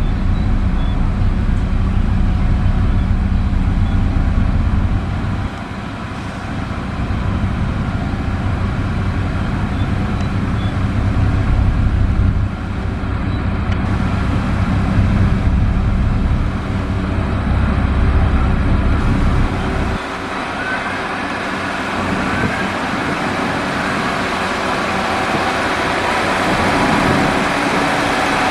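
Heavy diesel construction machinery running steadily, a deep engine rumble under a wash of mechanical noise. The sound shifts abruptly about three times, the low rumble dropping away after about 20 seconds while a brighter, higher noise grows toward the end.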